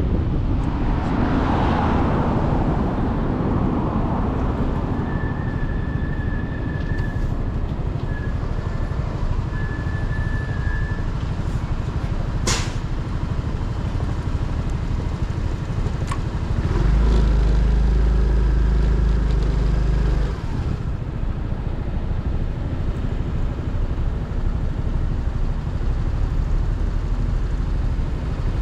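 Motorcycle engine running while riding in traffic, with road and wind noise. About 17 seconds in, a louder, deeper engine sound comes in for about three seconds, then drops back. A brief high tone and a single sharp click come earlier.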